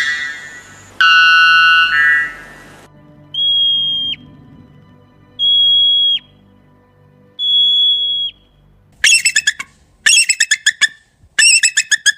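Calls of an unidentified animal: a buzzy, pitched call lasting about two seconds, then three separate steady high whistles about two seconds apart, each dropping in pitch at the end, then rapid chattering calls near the end.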